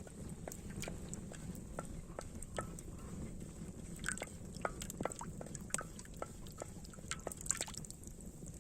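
Outdoor cooking over a fire: a steady low background with many irregular crackles and pops, busiest in the second half.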